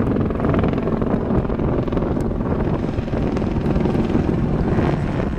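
Helicopter running steadily nearby, its rotor and turbine making a loud, even sound with a rapid, regular beat.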